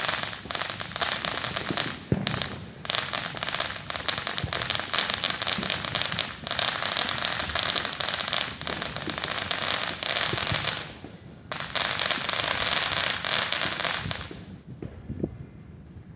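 Fireworks crackling: a dense, continuous run of rapid pops and crackles, with two short breaks, that stops about fourteen seconds in.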